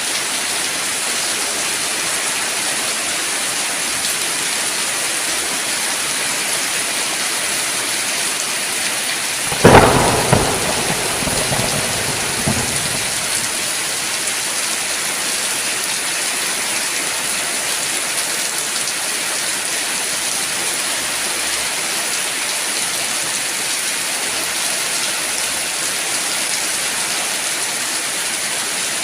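Steady heavy rain with a sudden sharp thunderclap about ten seconds in, its rumble dying away over the next few seconds.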